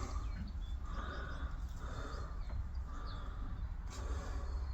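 Faint bird calls, a few short repeated calls with small high chirps, over a steady low rumble.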